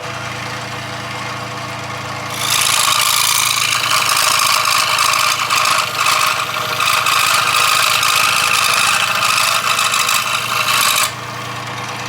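1991 scroll saw running, its electric motor humming steadily as the blade reciprocates. About two and a half seconds in, the blade starts cutting a piece of scrap wood, adding a much louder, hissy sawing sound. This lasts until about a second before the end, when the saw runs free again.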